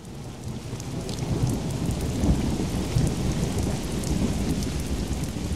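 Rain falling with a low rolling rumble of thunder, fading in over the first second.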